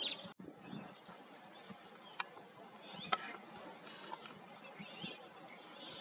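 Small birds chirping in a few short, scattered calls over a faint steady background noise, with a sharp click about two seconds in.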